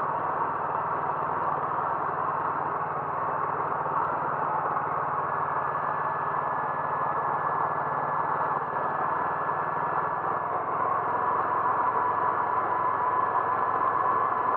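Steady engine and road noise of a moving car, with no let-up. A faint high whine joins about five seconds in.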